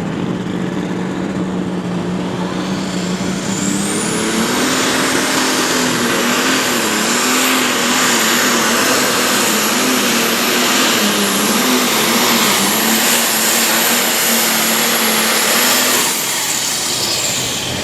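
Triple-turbocharged super stock pulling tractor making a pull. Its diesel engine goes from a steady run to full power about four seconds in, with a high turbo whine climbing and then holding for about twelve seconds. Both ease off near the end.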